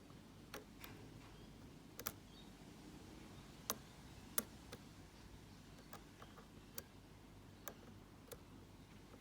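Faint, irregular clicks of a lock pick working the serrated security pins of a six-pin Mako padlock while it is being picked: each click is a pin serration catching at the shear line. About ten sharp clicks at uneven spacing, the loudest two a little under a second apart midway.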